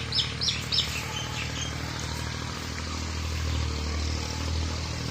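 A bird giving a quick run of sharp, high chirps in the first second, trailing off into fainter chirps, over a steady low engine hum.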